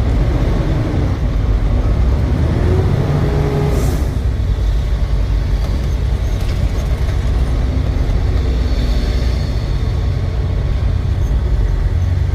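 Truck engine running under way with steady low road rumble, and a short hiss about four seconds in.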